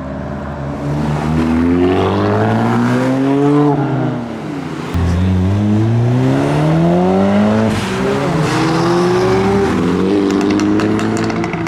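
Modified car engines accelerating away. Engine pitch rises in three long runs, each falling back before the next, and one gets suddenly louder about five seconds in.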